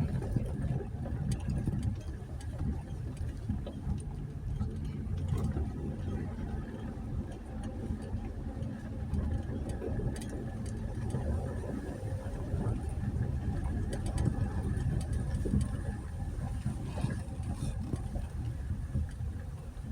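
A 2020 Jeep Gladiator's 3.6-litre V6 running at low revs as it crawls along a rough dirt trail, a steady low rumble with a few faint clicks and knocks.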